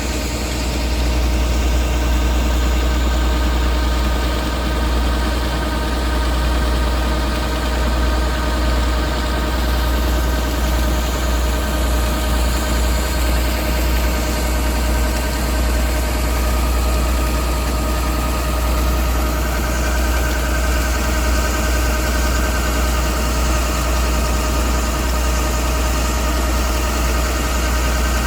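Rice combine harvester's engine running steadily with a strong low rumble.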